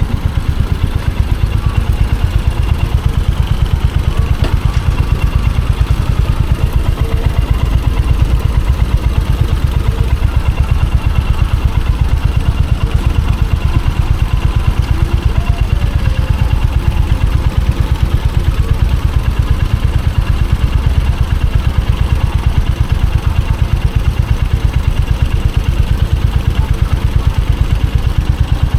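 Royal Enfield Hunter 350's single-cylinder engine and exhaust running steadily, an even beat of low exhaust pulses with no revving up or down.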